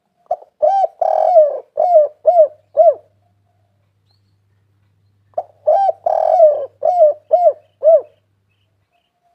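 Spotted dove cooing: two phrases of about seven short rising-and-falling coos each, with a gap of about two seconds between them.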